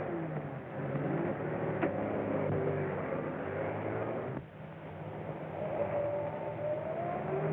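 Motor vehicle engine running on an old film soundtrack. It drops off sharply about halfway through, then builds again, rising in pitch near the end.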